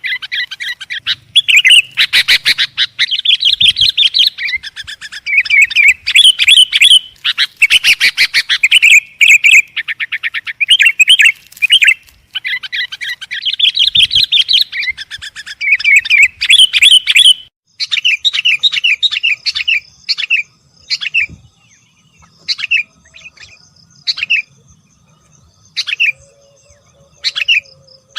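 Sooty-headed bulbuls (kutilang) calling in a busy run of rapid, warbling chirps. About two-thirds of the way through they thin out into short separate calls with pauses between them.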